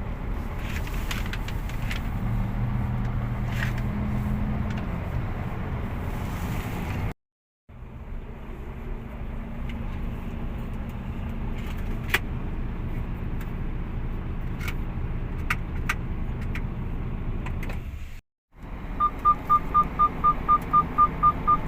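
Mercedes-Benz concrete mixer truck's diesel engine running steadily, cut off twice briefly. Near the end a rapid electronic beeping starts, about six beeps a second.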